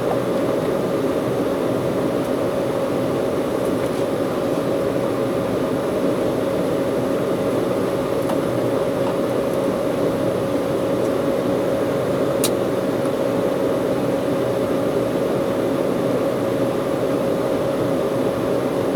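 Steady noise of an Embraer 190's CF34 turbofan engines heard inside the airliner's cabin: an even rush with a constant mid-pitched whine. A faint click about twelve seconds in.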